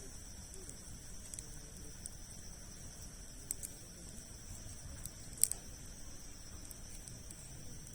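Campfire of large logs burning, with scattered sharp crackles and pops, the loudest about five and a half seconds in, over a steady high insect drone.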